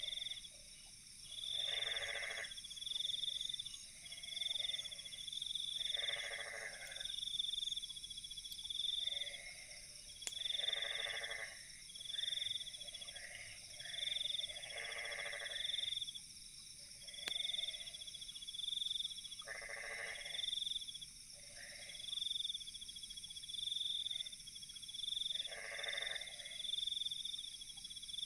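Night chorus of frogs giving pulsed croaking calls every two to four seconds over steady, high insect trilling, with a couple of faint pops.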